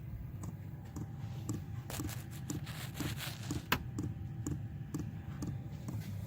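Chinese 8 kW diesel air heater running with a steady low hum, its fuel dosing pump ticking about twice a second after being turned up toward maximum. A sharp click sounds about two-thirds of the way through.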